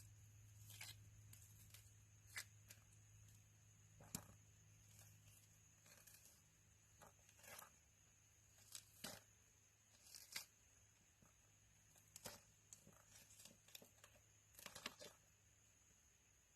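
Faint, irregular knocks and slicing strokes of a dull kitchen knife cutting food on a cutting board, over a low steady hum.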